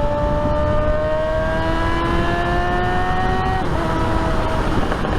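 Suzuki motorcycle engine pulling steadily, its pitch rising slowly as it accelerates, then dropping about three and a half seconds in as the rider shifts up a gear, over a steady rush of wind.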